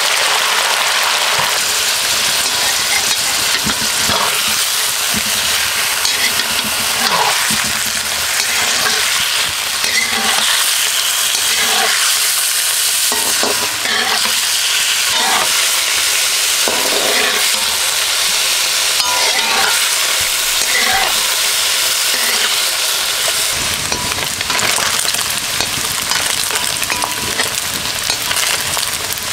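Diced chicken frying in hot oil in an iron wok, stirred and scraped with a wooden spatula: a steady sizzle with scattered scrapes and knocks.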